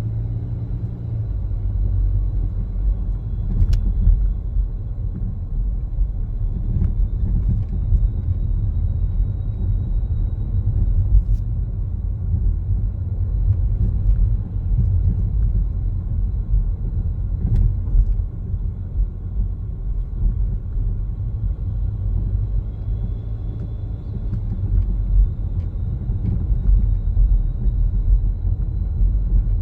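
Car driving along, heard from inside the cabin: a steady low rumble of road and engine noise, with a few faint clicks.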